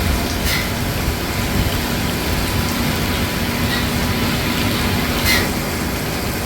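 Steady running of the hydraulic pump servicing a Boeing 767-400's center hydraulic reservoir, a constant low hum over the hiss of rain. Two brief high clicks, about half a second in and near the end.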